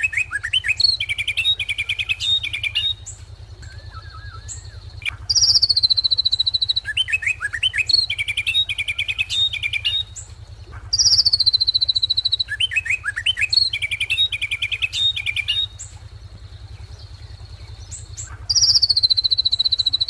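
Ashy drongo song: a high whistled note sliding down, then a quick run of warbled chirps, the same phrase repeated about every five to seven seconds. A thin steady high tone fills the gaps between phrases, over a low steady hum.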